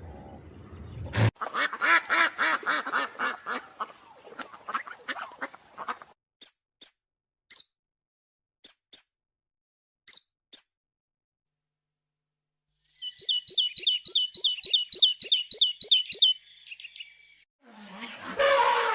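Animal and bird calls: first a quick run of pitched calls that slows down over about five seconds, then a few scattered very high short chirps, then a fast high-pitched trilling bird song lasting about three seconds.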